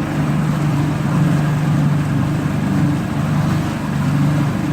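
Helicopter flying low overhead, a steady drone of rotor and engine that swells and fades a little.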